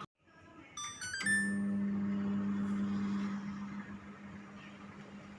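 LG microwave oven sounding a quick run of short electronic beeps at different pitches, like a little tune, about a second in, followed by the oven's steady low electrical hum, loudest for the next two seconds and then fainter.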